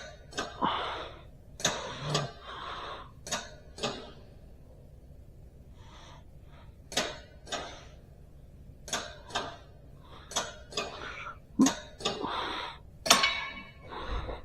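Hands working on a person's back and shoulders: irregular sharp clicks and knocks, about fifteen of them, with short breathy exhales in between.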